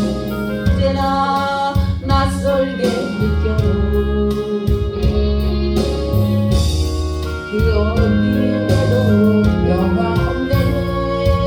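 A solo voice singing a gospel hymn over instrumental accompaniment with sustained chords and a steady bass; the voice wavers on its held notes.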